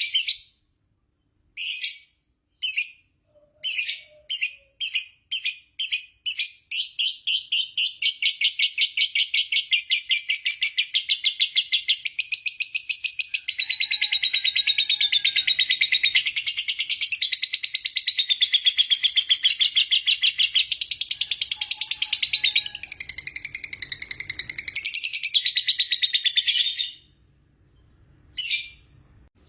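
Lovebird giving its long 'ngekek' chatter: a few separate shrill chirps that quicken about seven seconds in into one unbroken, rapid, high-pitched trill lasting about twenty seconds, which stops suddenly, followed by a few single chirps near the end.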